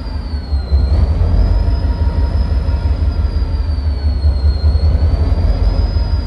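EMD 645 16-cylinder two-stroke diesel engine of a locomotive running loud and deep during a cold start, with a high whine that wavers slowly in pitch above it. Loudness dips briefly under a second in, then picks back up.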